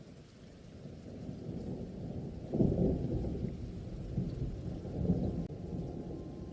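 Thunder rumbling in a rainstorm: a low rumble fades in, a louder peal breaks suddenly about two and a half seconds in, and further rolls follow near the end.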